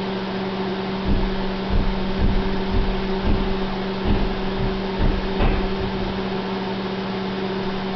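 Microwave oven running with an egg inside, a steady hum, with a few dull low thuds in the first half.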